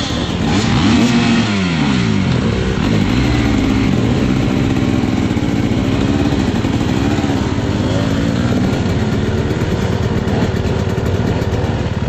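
Dirt bike engine revving under throttle, its pitch rising and falling over and over, every second or two.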